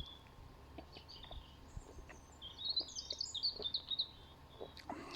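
A small bird chirping, a quick run of high chirps about halfway through, over a quiet outdoor background.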